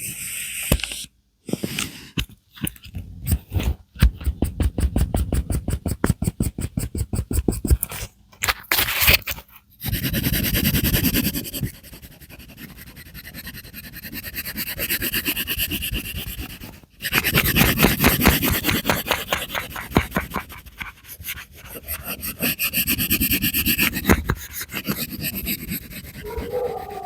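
Colouring strokes on paper, a scratchy rubbing made by quick back-and-forth strokes, several a second, in runs broken by short pauses.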